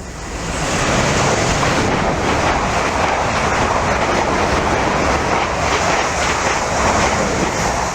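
Train passing close by on the line: a loud, steady rush of wheel-on-rail noise that builds over the first second and falls away at the end.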